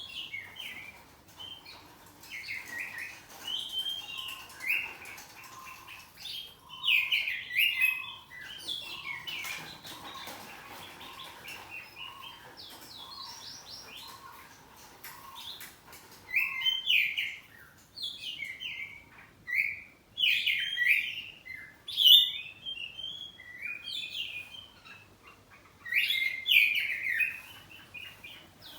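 Oriental magpie-robin (kacer poci) singing loud, varied phrases of whistles and chirps in repeated bursts with short pauses between them. A run of evenly spaced lower notes sounds beneath the song for several seconds in the middle.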